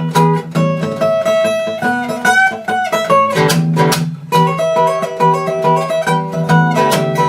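Acoustic guitar playing the song's instrumental break: strummed chords with a picked single-note melody stepping over them.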